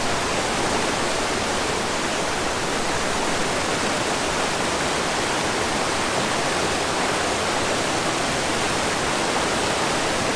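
Waterfall's rushing water, steady and unbroken.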